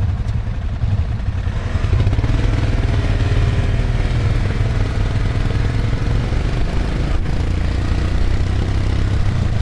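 Motorcycle engine running steadily, growing louder about two seconds in.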